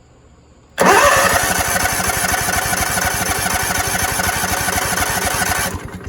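Propane floor buffer's small engine cranking on its electric starter for about five seconds: the starter spins up with a brief rising whine, then a fast even chugging, and it stops suddenly without the engine catching, likely a fuel-delivery fault.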